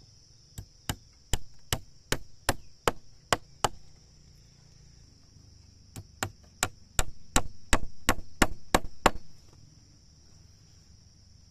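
Wood being chopped with a blade, two runs of sharp strokes at about two to three a second with a short pause between, the second run faster. A steady high insect buzz runs behind.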